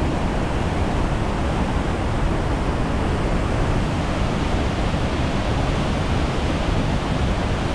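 Waterfall: a steady rushing of falling water, heard close, with no breaks.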